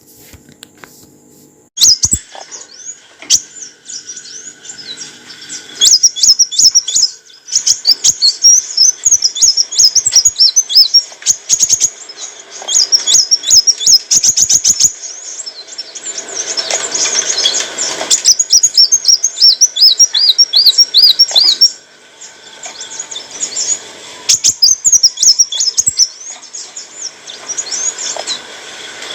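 Kolibri wulung sunbird singing: fast, high, twittering chirps and trills in rapid bursts, starting about two seconds in with a short pause near the three-quarter mark.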